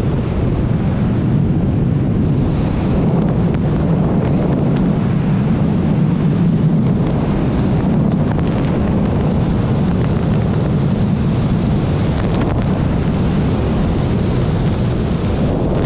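Strong wind rushing over the microphone of a tandem paraglider in fast flight during an aerobatic trick: a loud, steady roar of airflow.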